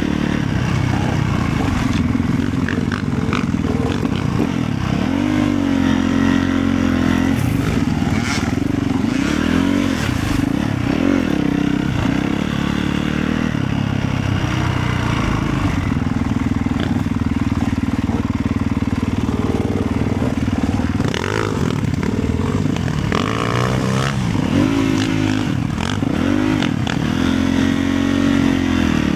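Motorcycle engine running under way, its pitch rising and falling again and again as the throttle is opened and closed, with a steadier stretch in the middle.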